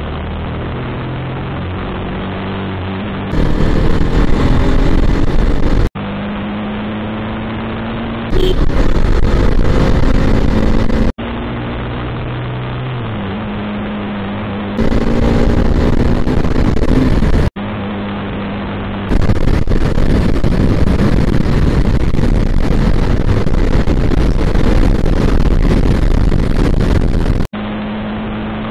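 Bajaj Pulsar NS200's single-cylinder engine pulling hard on the road, its pitch climbing as it revs up through the gears, in several short clips joined together. In some stretches a loud rush of wind on the microphone covers most of the engine.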